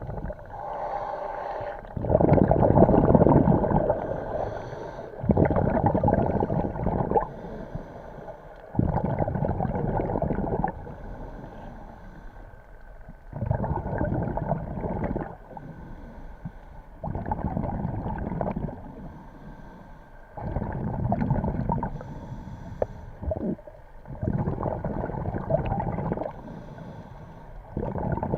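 Scuba diver breathing through a regulator underwater: a loud bubbling rush of exhaled air about every three and a half seconds, each lasting about two seconds, with quieter inhalations in between.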